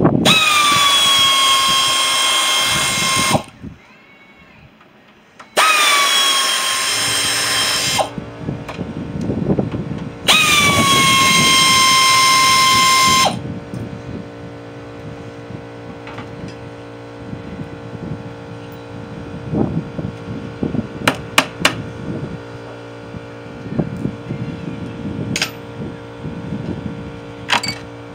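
Power drill run three times for two to three seconds each, whining up to a steady pitch as it backs the screws out around the top of a scrap boiler's casing. A quieter steady low hum with a few sharp clicks follows.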